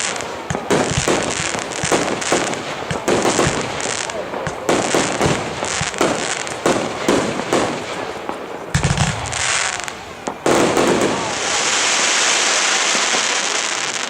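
Fireworks going off: a rapid, irregular run of sharp bangs and crackles, with a deeper boom about nine seconds in, then a steady hissing rush near the end.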